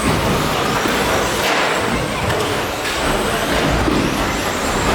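Electric RC stadium trucks with 13.5-turn brushless motors racing: a steady rushing noise of motors, gears and tyres on the track, with a faint high whine.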